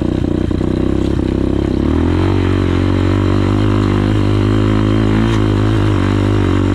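Enduro motorcycle's 250cc single-cylinder 172FMM engine running under load on a trail climb, with some clatter. About two seconds in, the engine note changes and then holds steady.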